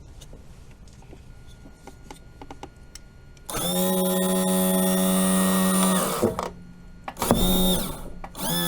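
Outboard power trim and tilt unit's electric pump motor running, driving the hydraulic ram: a steady whine for about two and a half seconds, then two shorter runs near the end. The system has just been bled of air and now moves up and down without much trouble.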